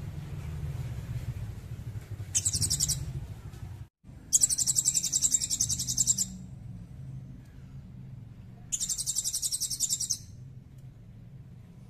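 A small songbird's high, rapid trill, sung in three bursts: a short one about two seconds in, a longer one of about two seconds a little after the middle, and another of about a second and a half near the end, over a faint low hum.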